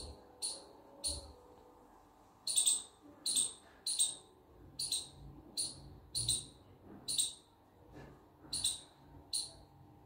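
A bird chirping: short, high-pitched chirps repeated irregularly, about one every half second to second.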